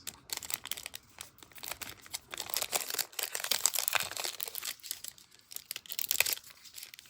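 A trading-card pack's wrapper crinkling and tearing as it is worked open with difficulty, a dense irregular crackle.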